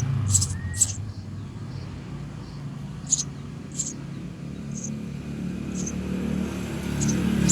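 Eurasian tree sparrow chicks chirping in short, high cheeps about once a second, over the low rumble of a vehicle engine that grows louder near the end.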